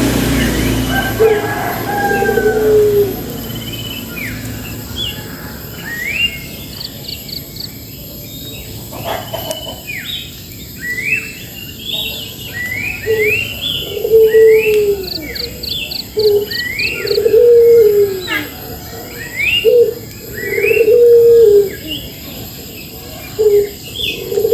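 A dove cooing over and over in low, arching notes, mixed with many short rising chirps from small songbirds. The coos come more often and louder in the second half. There is a single brief knock a little over a third of the way through.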